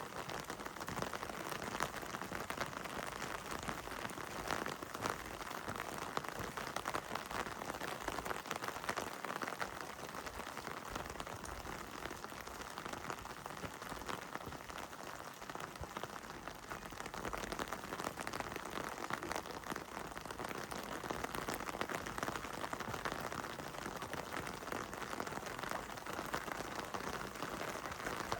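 Heavy rain falling steadily, a dense patter of drops on hard surfaces.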